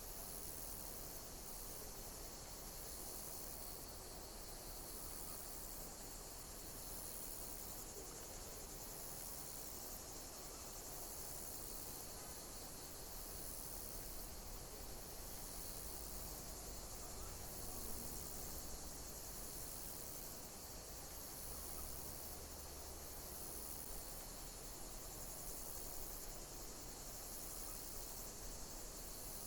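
Insects chirping in a dense, high-pitched chorus, with a pattern that repeats every second or two over a steady hiss.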